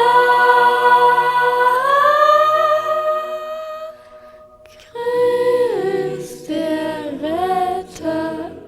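Singing: a long held note that slides up in pitch about two seconds in and fades, a short lull, then a run of shorter notes that bend up and down.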